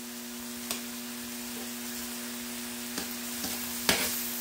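Chicken breast pieces sizzling as they fry on a hot griddle, with a few sharp taps as they are moved about, the loudest nearly four seconds in. A steady hum runs underneath.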